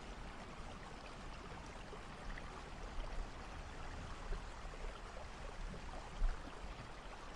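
Steady rain from a rainstorm recording: an even hiss of falling rain with a few slightly louder moments.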